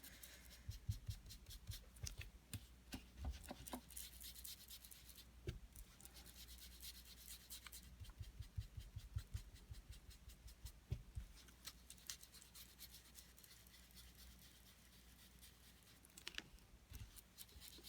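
Faint scratching and rubbing of an ink blending tool working Distress Ink across cardstock, with scattered small taps.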